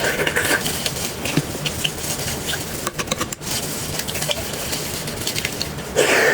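Close-miked eating sounds: chewing and wet mouth noises over a steady hiss, with small clicks scattered through, and a louder burst near the end.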